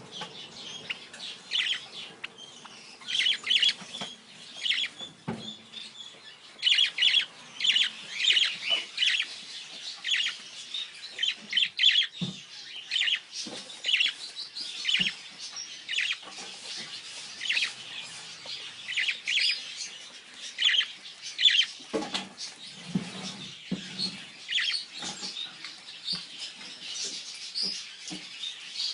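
Yellow-shouldered amazon parrot chirping: many short high calls in quick clusters. There are a few low thuds about two-thirds of the way through.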